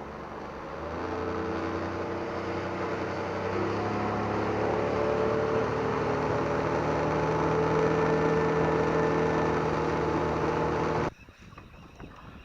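Boat engine running steadily under way, slowly growing louder, then cutting off suddenly about eleven seconds in.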